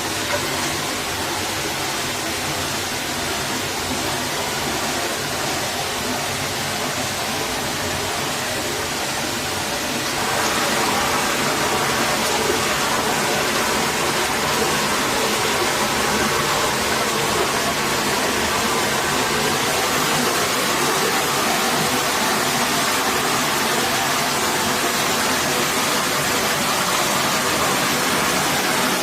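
Forest stream water rushing steadily, growing a little louder about ten seconds in.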